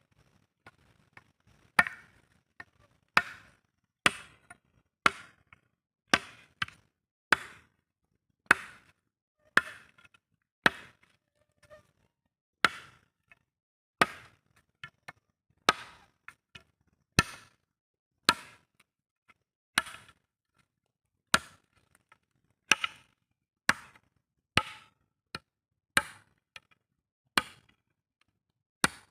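Wood being chopped with a steady series of blows, about one a second, some followed by a lighter second knock.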